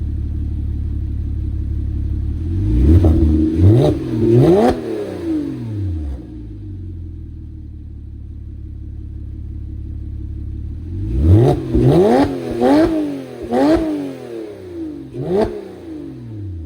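Porsche Cayman S 3.4-litre flat-six breathing through a Borla aftermarket exhaust, idling and being blipped. Three quick revs come a few seconds in, then a steady idle, then a run of about five sharp revs in the second half, each rising and falling fast.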